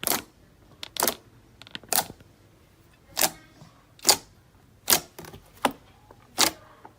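Slime being worked by hand, giving eight sharp pops or clicks at roughly one a second.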